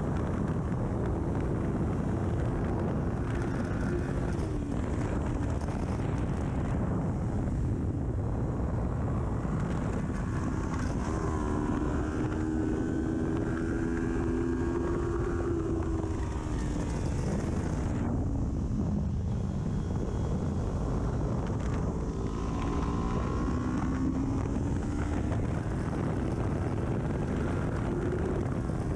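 Kawasaki Ninja 400 parallel-twin engine on an aftermarket full exhaust, running hard on track. Its pitch climbs under acceleration, drops away about two-thirds through as the rider slows, then climbs again. Heavy wind rush on the microphone runs underneath.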